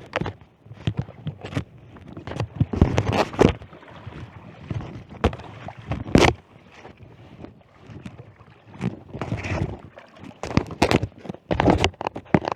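Kayak and fishing gear being handled: irregular knocks, clunks and scrapes, with no steady rhythm.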